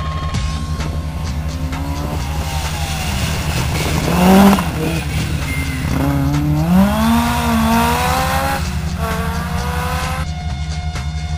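Rally car engine at high revs, its pitch rising and falling through gear changes, loudest about four and a half seconds in. A steady electronic music beat runs underneath, and the engine sound gives way to the music alone near the end.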